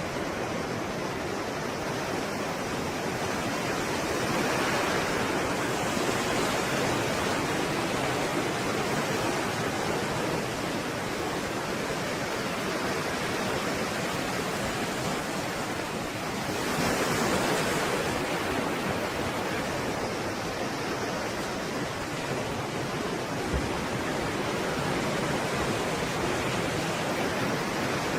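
Stormy sea surf: a continuous rush of waves, with breakers surging louder about four seconds in and again around seventeen seconds.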